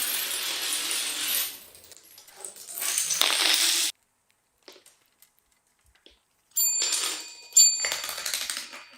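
Dominoes clattering in quick runs of clicks: a rush of clicks that stops abruptly, then two louder clatters with a faint ring near the end.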